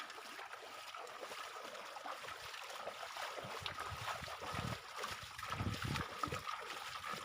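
River water trickling and sloshing, with heavier low splashes in the second half. A faint steady high tone runs underneath.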